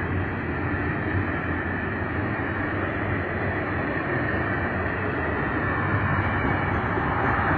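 Double-stack container well cars rolling past at slow speed: a steady, dense noise of steel wheels on rail with a low hum underneath, getting slightly louder near the end. The uploader puts this wheel noise down to poorly maintained wheel assemblies.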